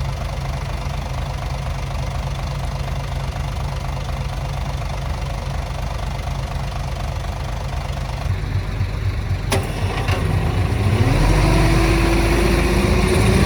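Heavy-equipment diesel engine idling steadily, then a sharp knock about nine and a half seconds in, followed by the engine working harder and getting louder, with a slowly rising whine near the end.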